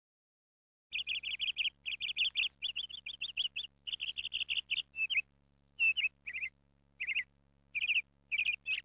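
A small bird chirping in quick runs of short high chirps, several a second, with brief pauses between runs; it starts about a second in.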